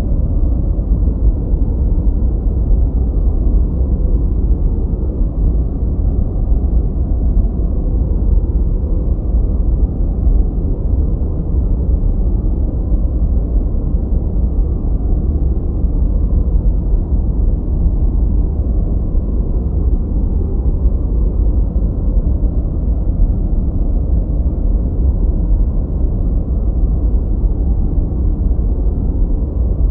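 Continuous generated noise for masking and focus, steady and unchanging, with a deep rumbling character: its energy is heaviest in the bass and falls away above the midrange, so it sounds darker than true white noise.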